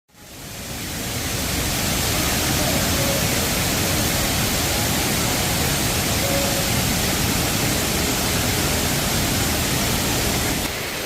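A waterfall's steady rush of falling water, fading in over the first second or so and dipping slightly near the end.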